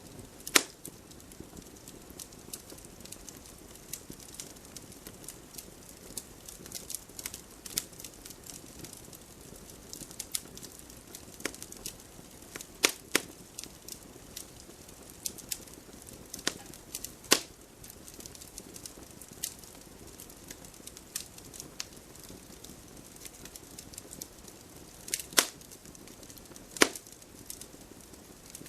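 Wood fire crackling in a fireplace: a steady low hiss with frequent small pops and a few loud, sharp snaps scattered through.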